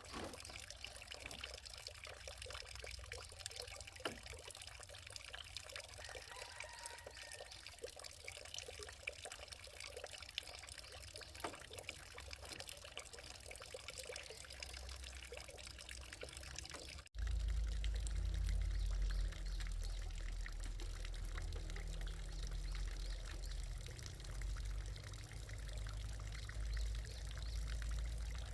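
Water trickling and pouring, a steady crackly patter of small splashes. About two-thirds of the way through the sound cuts abruptly, and a heavy low rumble comes in under the water.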